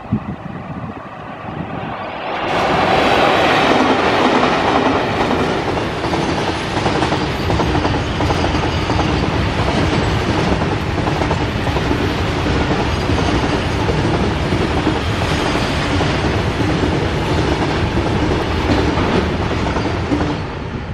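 Freight train of covered wagons behind twin WAG-5 electric locomotives passing close by at about 55 km/h. The locomotives' rush swells up about two seconds in. A long, steady run of wagon wheels clattering over the rail joints follows and fades as the last wagon passes near the end.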